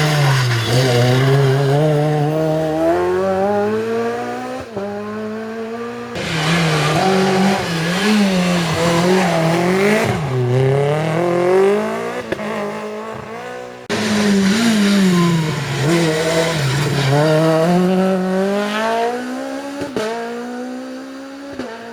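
Rally cars at full effort on a special stage, their engines revving hard and dropping in pitch at each gear change or lift, then climbing again. The sound breaks off and restarts twice, about six seconds in and again about two-thirds of the way through, each time with another car's engine.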